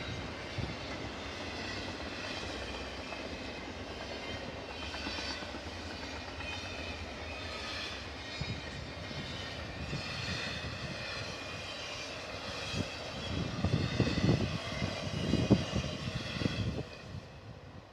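Freight train passing: a steady rolling noise of wheels on rail, with a few louder low thumps near the end before it cuts off.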